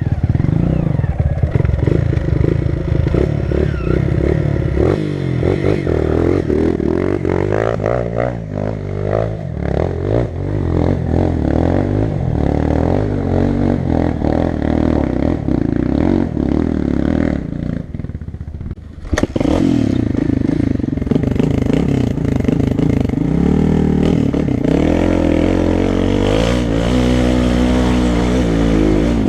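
Single-cylinder four-stroke dirt bike engine riding a trail, its pitch rising and falling with the throttle, with clatter from the bike over rough ground. It eases off for a moment, then there is a sharp knock about nineteen seconds in and the engine revs back up.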